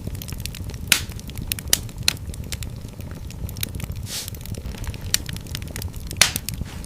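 Wood fire crackling in a fireplace: many small sharp pops and snaps over a steady low rumble of flame, with a few louder pops, one about a second in and another near the end.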